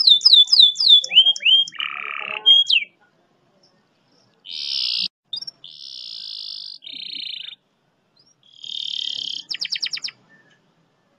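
Domestic canary singing a tutor song with long, fast rolls. It opens with quick downward-sweeping whistled notes, then moves to trills so rapid they blur into a buzz. The phrases are separated by pauses of about a second, and a burst of fast repeated notes comes near the end.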